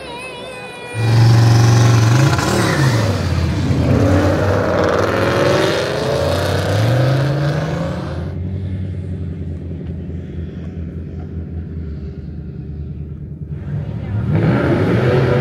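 Car engine starting up loudly about a second in and revving up and back down twice, with a hiss over it. It drops to a quieter, steadier run in the middle, then gets loud again near the end.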